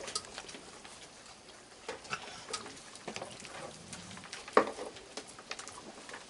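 Raccoons feeding close by: scattered small clicks, ticks and crackles of claws and chewing, with one sharper click about four and a half seconds in.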